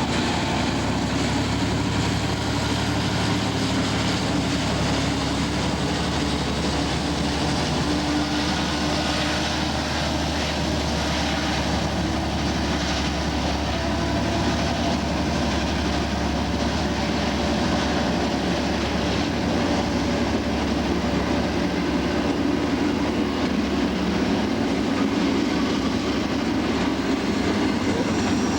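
Diesel-electric locomotive engine running steadily, a low engine drone with no change in level.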